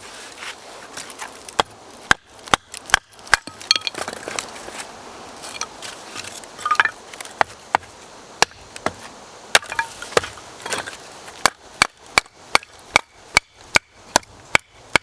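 Repeated chopping: a blade striking wood in sharp, separate strokes, mostly about two a second, with a short pause partway through.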